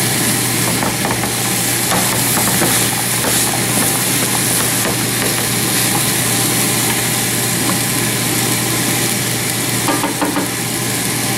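Meat and vegetables sizzling in a frying pan as they are stirred, with a steady low hum underneath.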